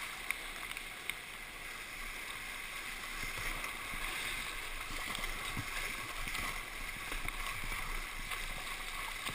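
Whitewater river rushing steadily around a kayak, heard from a camera mounted on the boat, with scattered small splashes and clicks.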